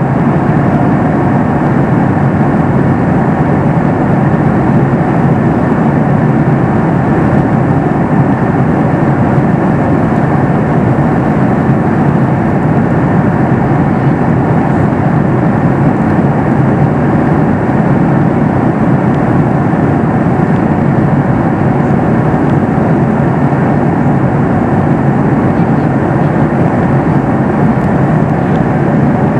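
Steady cabin noise inside a Boeing 737 MAX 8 in flight: an even rush of airflow and engine noise from its CFM LEAP-1B turbofans.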